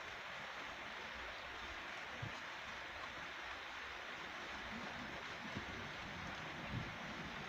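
Steady hiss of rain falling, with a few faint low thumps.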